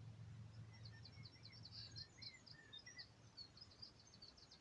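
Faint birdsong outdoors: a small bird's quick runs of high chirps and trills, with a few lower whistled notes, over a low steady hum that fades away in the first half.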